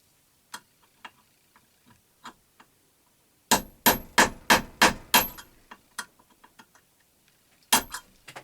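Hammer tapping on metal: a quick run of about seven ringing strikes a few seconds in, then two more near the end. The taps are meant to shock a seized, rusted fastener on a belt grinder loose.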